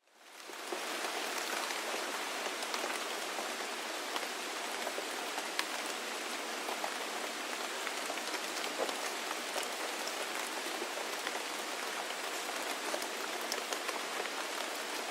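Steady rain falling: a dense even hiss with scattered sharp drop ticks, fading in over the first second.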